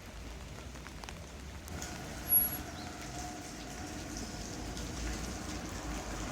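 Steady rain falling, with a motor vehicle running past on the wet road. A short sharp knock about two seconds in.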